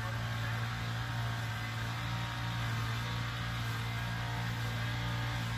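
Steady low electrical hum with overtones over a faint hiss, unchanging throughout.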